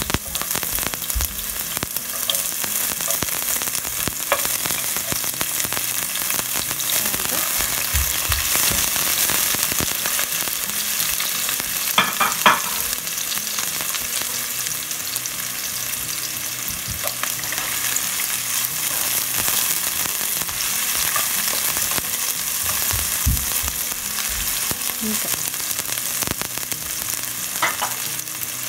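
Minced garlic and sliced onion sizzling steadily in hot oil in a nonstick pan as they saute. A few short knocks from a utensil in the pan are heard, the loudest about twelve seconds in.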